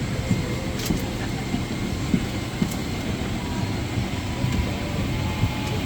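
Steady low rumble of an airliner cabin at the gate, the air-conditioning and aircraft systems running, with scattered soft thumps and faint clicks.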